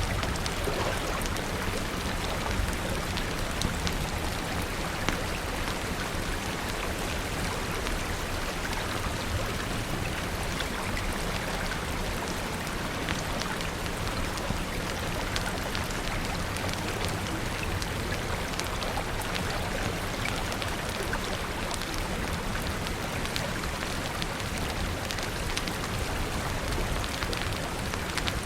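Steady rain falling, with a low, even rumble underneath and scattered sharp ticks and pops throughout.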